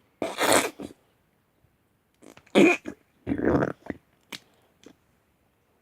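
Noise putty being squeezed and pushed about, giving three short squelching bursts of trapped air and a few faint clicks.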